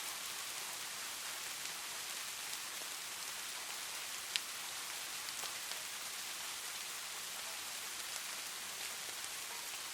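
Steady rain falling, an even hiss with scattered drop ticks and no thunder. One sharper drop tick stands out about four seconds in.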